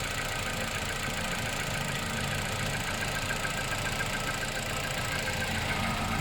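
Car engine idling steadily on a cold start, making the unexplained noise that the owner wants a mechanic to diagnose.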